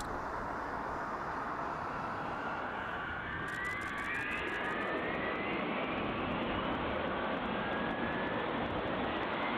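B-52 bomber's jet engines running with a steady loud rush, joined about two seconds in by several whines that climb slowly in pitch.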